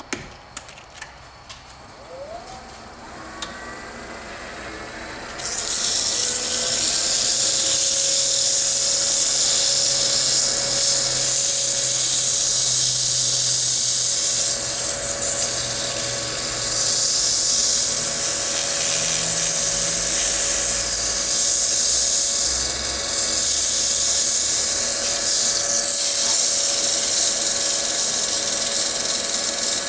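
A wood lathe's motor spins up with a rising whine and settles into a steady hum. About five seconds in, sandpaper is pressed against the spinning wooden bowl, making a loud, steady hiss over the motor. This is the bowl's final sanding, starting at 220 grit.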